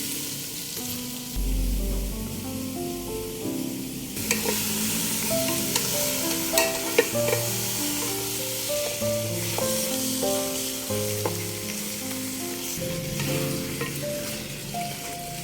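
Food sizzling in a hot pan, louder from about four seconds in, with a few sharp clinks of a utensil, over instrumental background music.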